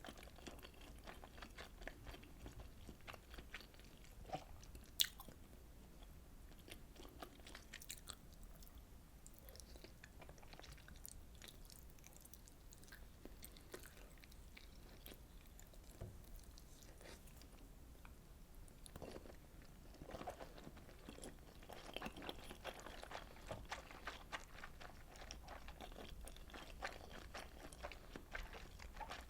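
Close-miked chewing and wet mouth clicks of a person eating fish cake soup, its chewy fish cakes and rice cakes. The sounds thin out in the middle and grow busier in the last third, with one sharp click about five seconds in the loudest.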